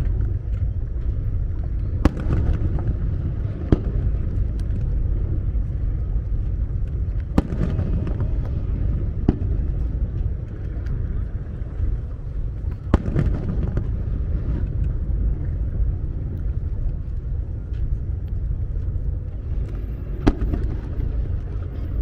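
Fireworks shells bursting: about half a dozen sharp booms at irregular intervals over a steady low rumble.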